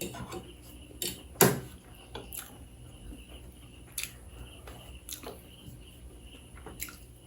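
Eating sounds from a meal of ramen, momo and omelette: a handful of short, sharp clicks of cutlery against a dish, the loudest about a second and a half in.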